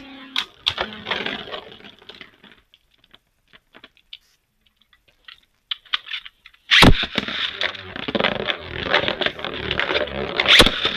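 Beyblade Burst spinning tops in a plastic stadium. Scraping and clicking fades out over the first couple of seconds, leaving near quiet with a few stray clicks. Almost seven seconds in comes a sudden loud clack, followed by rapid rattling, scraping and clashing of tops spinning against each other, with another sharp crack near the end.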